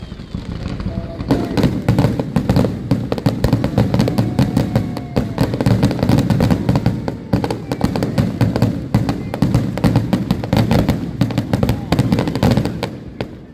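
Fireworks finale: a dense, continuous barrage of bangs and crackles, starting about a second in and thinning out near the end.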